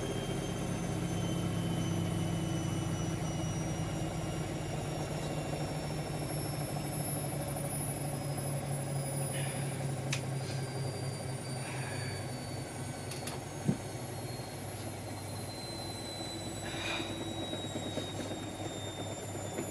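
Siemens Extraklasse XLs 140 A washing machine running mid-cycle on its 60°C cottons stain programme: a steady low motor and drum hum with thin high whines that slowly fall in pitch, and a few faint clicks.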